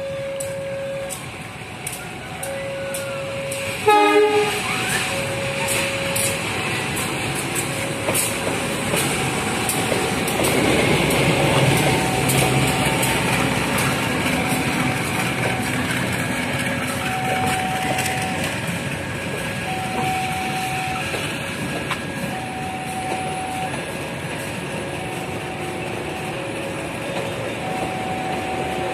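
A CC 203 diesel-electric locomotive and its passenger coaches passing at walking pace under a 20 km/h track-work speed restriction. The diesel engine and the wheels clicking over the rails grow loudest as the locomotive goes by, then the coaches roll past more quietly. A brief horn blast about four seconds in, and a level-crossing warning alternating between two tones.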